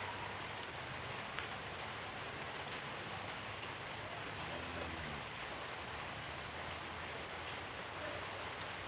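Steady tropical rain falling, an even hiss, over a constant high-pitched tone. A few short high pips come in twos and threes about three and five seconds in, and a brief low sliding call sounds about five seconds in.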